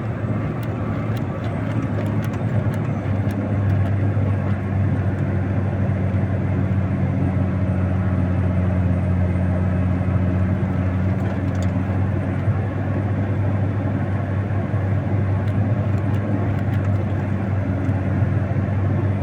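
Engine of a snow-clearing machine running steadily under load as its raised blade cuts into a snow bank, its hum growing a little stronger about four seconds in.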